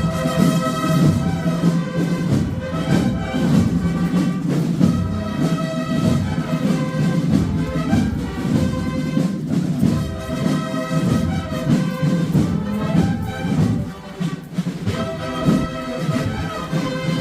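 Brass band music with drums: slow, sustained brass chords over a deep low line, the kind of march played in a Holy Week procession.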